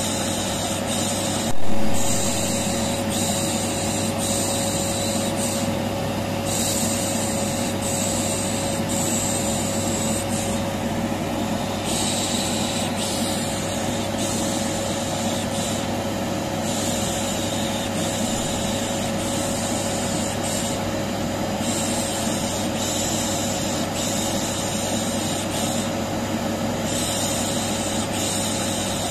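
Vacuum cleaner running steadily with a constant motor hum, overlaid with a 'shh shh' shushing hiss used as white noise to soothe a colicky baby. A brief louder surge comes about a second and a half in.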